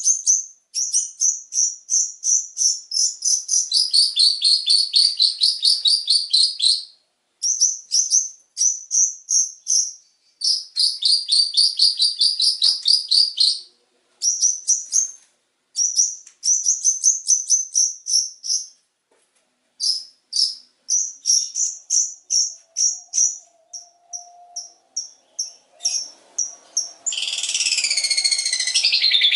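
Songbird song: rapid runs of sharp, high chattering notes, several a second, in bursts of a few seconds with short breaks; some runs step down in pitch. Near the end a denser warble of sweeping notes takes over.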